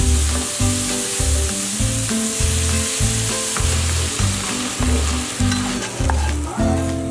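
Diced mushrooms, onion and minced garlic sizzling in a hot frying pan as they are stirred with a wooden spatula; the sizzle dies away near the end as the pan comes off the heat.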